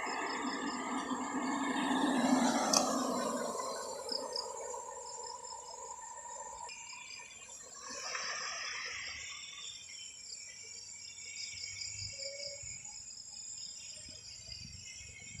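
Insects chirping in a fast, even pulse by the roadside, with a vehicle going past in the first few seconds, its sound falling in pitch as it passes, and another fainter vehicle passing a little past the middle.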